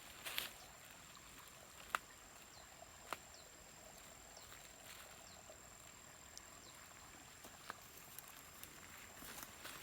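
Faint outdoor ambience: a steady soft hiss with a thin high steady whine, a few sharp clicks and several tiny brief chirps.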